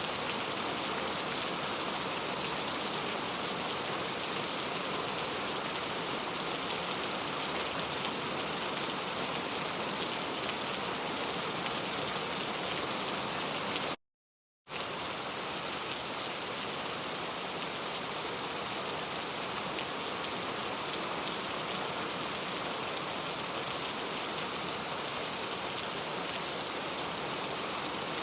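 Steady rainfall, an even hiss of many drops. It breaks off to silence for under a second about halfway through, then resumes unchanged.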